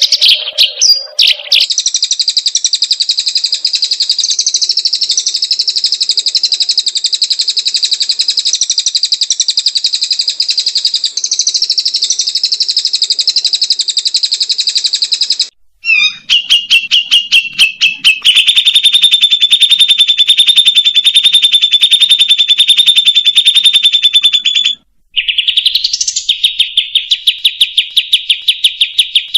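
White-rumped shama (murai batu) singing long, loud machine-gun trills of very fast repeated high notes (the 'trotol' style). The trills are broken by two short pauses, and there is a rising note just before the last trill.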